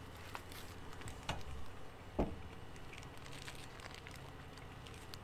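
Quiet chewing of a fried chicken sandwich with small paper-wrapper handling noises, and a couple of short sharp clicks about one and two seconds in.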